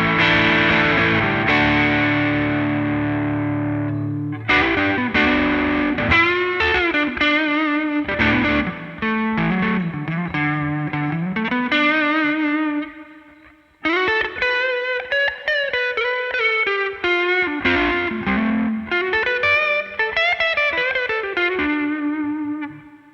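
Electric guitar (Yamaha Revstar RS620) played through a Greer Amps Lightspeed overdrive pedal. A held, driven chord rings for about four seconds, then single-note lead phrases follow with string bends and vibrato. There is a brief pause about halfway, and a last note fades out near the end.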